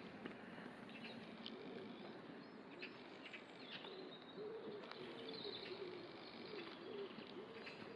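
Faint birdsong: small birds chirping in short high calls, joined from about halfway through by a low, wavering cooing call.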